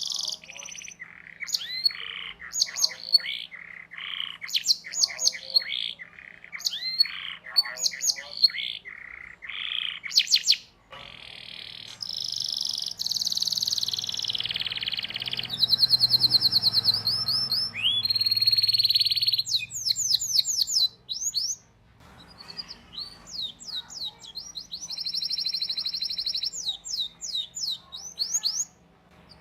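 Domestic canary singing a long, varied song: quick chirps and sweeping notes, broken by fast trills ('rolls') of rapidly repeated notes, the longest ones in the middle and again near the end. A faint steady hum sits under the song.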